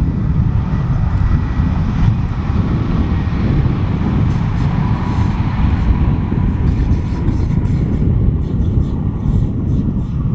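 Electric train running past on the mainline: a loud, steady rumble with a faint whine.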